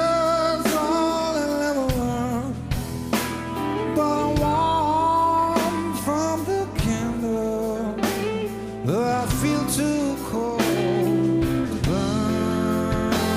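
Live rock band playing a slow grunge ballad: a male lead vocal sings a bending melody over electric guitar, bass and steady drum hits.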